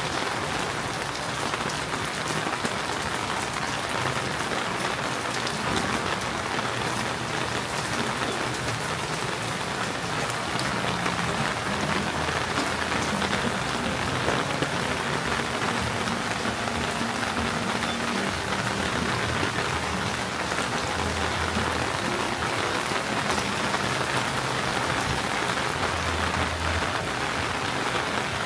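Steady rain falling, an even, dense hiss of drops that neither builds nor fades.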